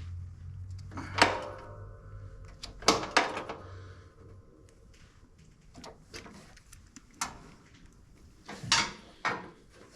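Scattered metallic clicks and clanks of a ratchet, extension and loose ground bolt being worked and handled on a mower frame, about six separate knocks, the first with a short metallic ring.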